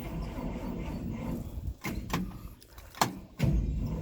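Starter cranking a GMC 305 V6 that does not fire. The cranking stops about two seconds in, followed by a few short, faltering tries: the battery is dead.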